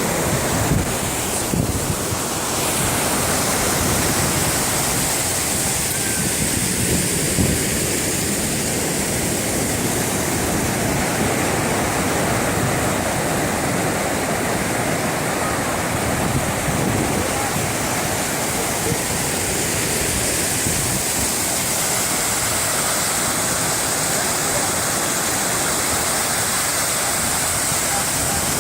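Steady rushing of a waterfall pouring down onto a beach, mixed with the surf of the sea.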